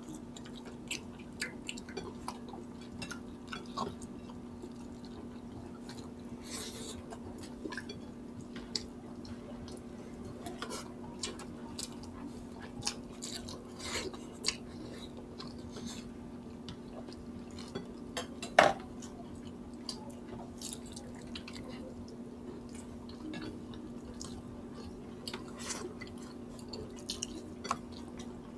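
Close-miked eating: chewing of chicken and rice with scattered small clicks and smacks from mouths, fingers and dishes, and one louder sharp click about two-thirds of the way through. A steady low hum lies underneath.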